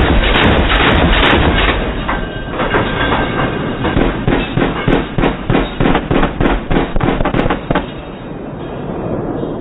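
Machine gun firing: a dense, rapid run of shots for the first two seconds, then separate shots about four or five a second until a few seconds before the end, where they stop and leave a rumbling tail.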